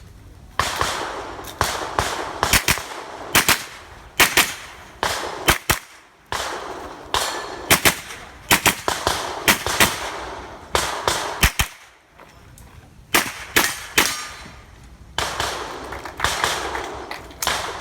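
A .22 rimfire mini-rifle fired in quick strings of single shots, about thirty in all, with short pauses near the middle and about two-thirds of the way through.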